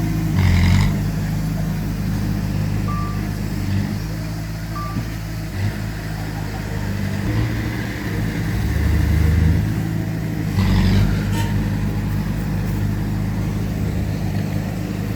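Heavy diesel engines of earthmoving machinery, a bulldozer and dump truck, running steadily under load, their pitch shifting as they work. A burst of clanking noise comes about half a second in and again about eleven seconds in, and two short beeps sound around three and five seconds.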